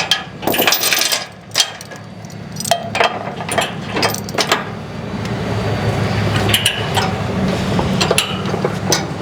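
Chains clinking and clanking in sharp metallic knocks as a load chain is worked tight with a chain binder, over a steady idling engine.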